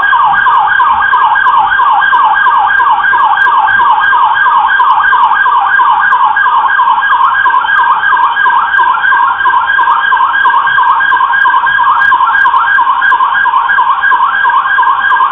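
Police car siren on a fast yelp: quick, rising sweeps repeating about four to five times a second, loud and unbroken.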